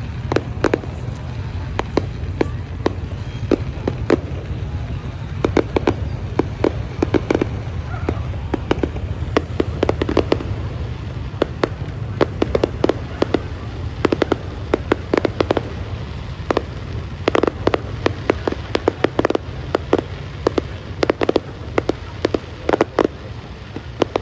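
Fireworks display going off: many sharp bangs and pops at an irregular pace, coming in dense clusters, over a steady low rumble.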